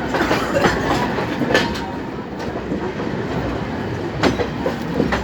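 Indian Railways passenger coaches rolling past slowly with a steady rumble, their wheels clacking over rail joints at uneven intervals.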